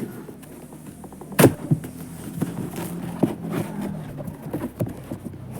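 An Amazon parcel's packaging being torn open by hand: one sharp rip about a second and a half in, then a run of smaller tearing and crinkling sounds.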